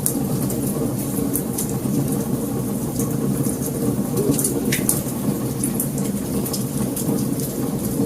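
Wood fire burning with a steady low roar and scattered sharp crackles and pops.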